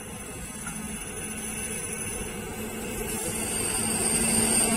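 WAP4 electric locomotive hauling a passenger train, approaching and growing steadily louder: a steady low hum under rumble, with wheel-on-rail hiss building over the last second or two as it draws level.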